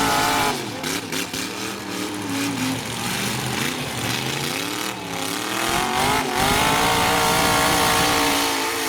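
Full-size demolition derby pickup truck engines revving hard, the pitch rising and falling, then one engine climbing to high revs about two-thirds of the way in and held there.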